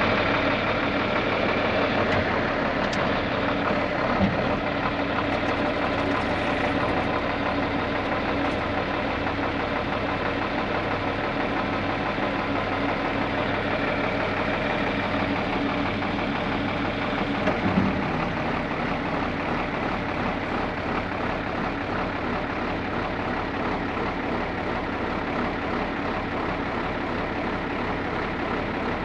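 John Deere 4630 tractor's six-cylinder turbocharged diesel engine running steadily at idle, with a couple of brief knocks about four seconds in and again near eighteen seconds.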